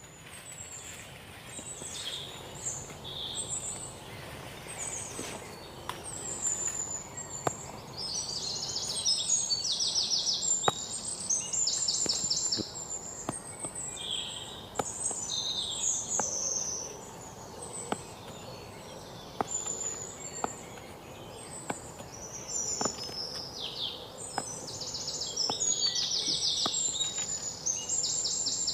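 Several small birds chirping and calling, with many short high notes and bursts of rapid trills, busiest a third of the way in and again near the end. Faint scattered ticks under the birdsong.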